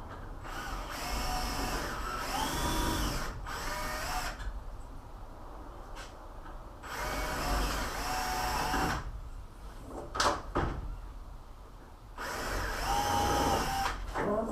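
Power drill running in three separate bursts of a few seconds each, its motor whine rising as it spins up and then holding steady, with a couple of sharp clicks between the second and third runs.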